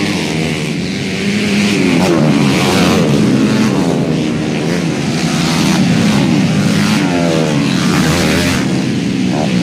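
Several motocross bike engines revving, their pitch rising and falling again and again as they overlap.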